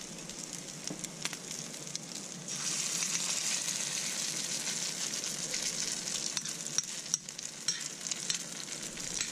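Salmon patties sizzling in olive oil in a stainless steel pan, a steady hiss with small crackles. The sizzle gets louder about two and a half seconds in, as another spoonful of patty mixture goes into the hot oil.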